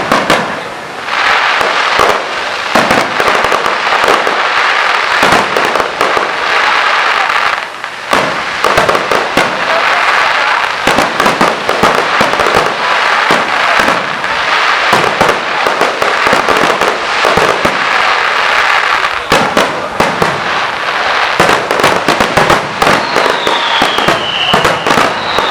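Fireworks display going off in a dense barrage of rapid crackling and bangs, with hardly a break. Near the end, high whistling tones fall in pitch over the crackle.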